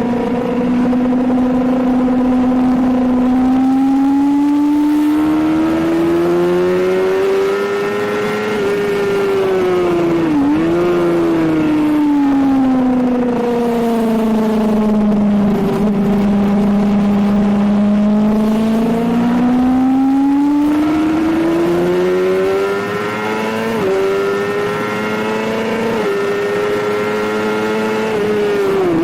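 Suzuki GSX-R750 inline-four sport bike engine at track pace, heard on board. The revs climb, drop sharply for a moment about ten seconds in, sink slowly through a long stretch, then climb again, with brief hitches in the note near the end.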